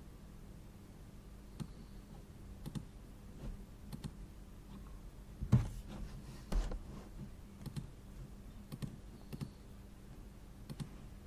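Scattered, irregular clicks of computer work at a desk over a low steady hum. Two louder knocks come about a second apart midway through.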